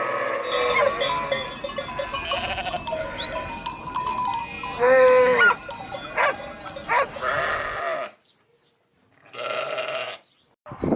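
Flock of sheep bleating, several calls overlapping, with one loud wavering bleat about halfway through; the calls stop about two-thirds of the way in, and one more short bleat follows.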